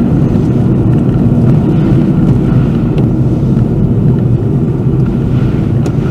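A car driving, heard through a dashcam: a loud, steady rumble of road and engine noise.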